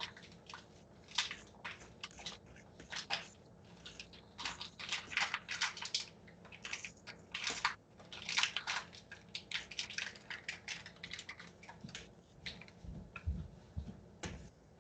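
Kitchen utensils and dry ingredients being handled while the breading is measured out: an irregular run of short scrapes, clicks and crunches.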